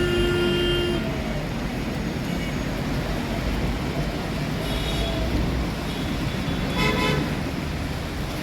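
Road traffic running with vehicle horns honking: a horn held for about a second at the start, then shorter toots about five and seven seconds in, over a steady engine rumble.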